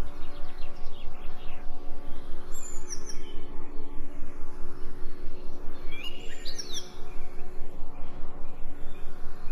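Songbirds chirping in two short bursts, about two and a half and six seconds in, over a steady, evenly pulsing hum.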